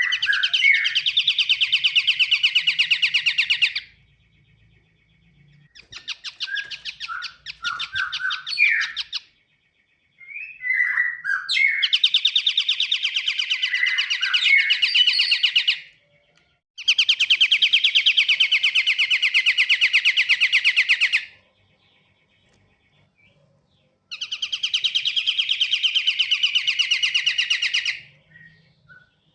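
Pied triller (kapasan kemiri) singing: five long, very rapid trills of a few seconds each, some opening with a few short chirps, separated by brief pauses. This is a lure call played to attract the same species.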